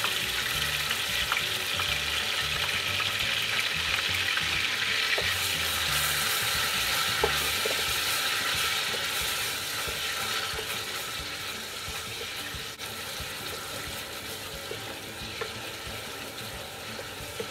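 Ginger-garlic paste and chopped onion sizzling in hot oil in a stainless steel saucepan, stirred with a wooden spatula with a few light knocks. The sizzle eases off after about ten seconds as the paste takes up the oil.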